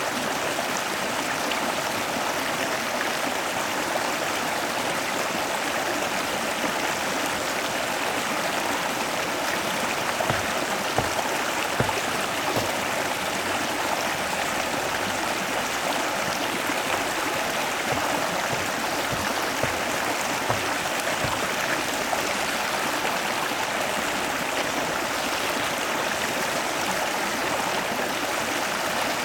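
A stream flowing: a steady rushing of water, with a few soft low knocks in the middle.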